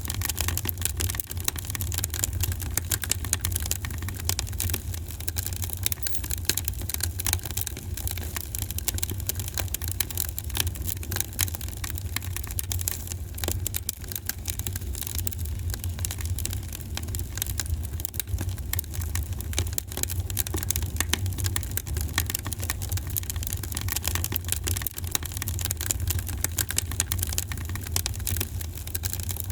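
Wood fire in a fireplace crackling, with dense rapid crackles and pops over a steady low rumble.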